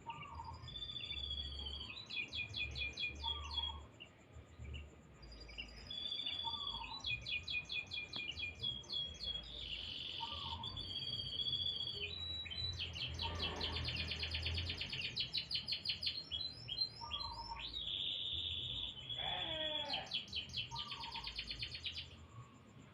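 Domestic canary singing a long, varied song of rapid trills and rolls, broken by a short pause about four seconds in. A faint short low note repeats every couple of seconds underneath.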